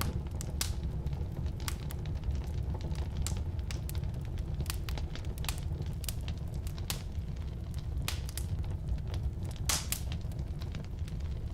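Firewood burning in a fireplace or wood stove: a steady low rumble of the flames with irregular sharp pops and crackles of the wood, one louder pop a little before the end.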